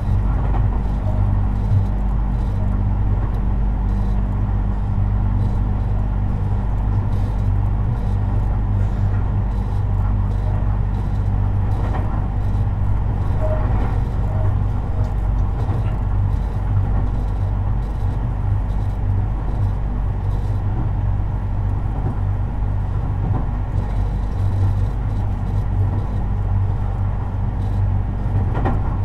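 Tobu 50090 series electric train running at a steady speed, heard inside the car: the continuous rumble of wheels on rail under a steady low hum.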